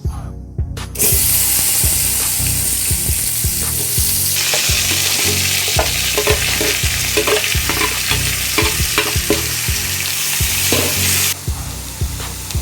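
Food sizzling in a hot pan while being stirred and scraped with a spatula or spoon. The sizzle starts suddenly about a second in and drops off sharply near the end.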